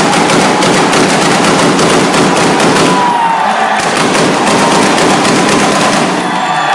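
Open, unmuffled car exhaust held at high revs for a loudness measurement, with a dense, rapid crackle and popping throughout.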